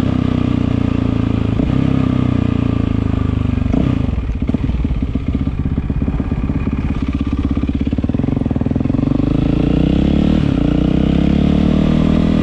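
Yamaha WR450F single-cylinder four-stroke engine running through an Akrapovič exhaust. About four seconds in the revs drop to a slower beat with distinct firing pulses, then from about nine seconds the revs climb again.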